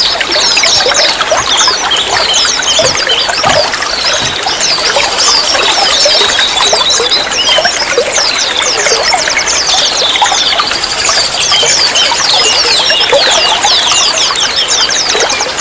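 Running water trickling and splashing steadily, with many quick, high-pitched squeaky notes over it and a wavering trill now and then.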